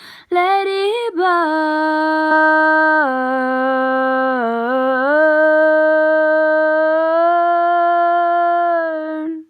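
A woman's voice singing unaccompanied, drawing out one long wordless note for about nine seconds with a couple of small dips in pitch, then stopping.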